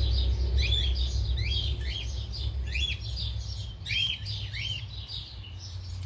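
Bird chirping: short, quick chirps repeated two or three times a second, over a steady low hum.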